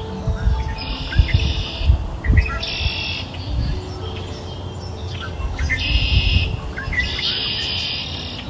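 Small birds chirping in four short bursts of fast twittering, over soft background music of long held notes. A few soft low thumps come in the first few seconds.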